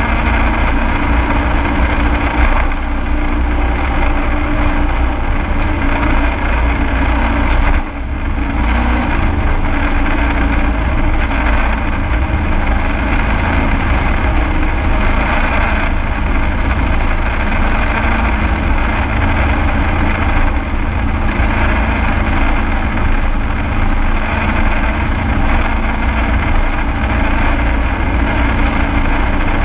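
Racing truck's engine running steadily, loud and heavy, heard from inside the cab, with a brief dip in level about eight seconds in.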